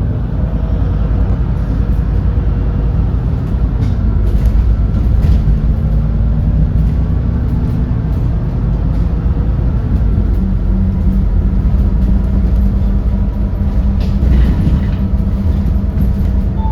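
Edison Motors Smart 110G city bus's GX12P natural-gas engine running under way, heard from inside the cabin as a steady low drone whose pitch shifts about eight to ten seconds in.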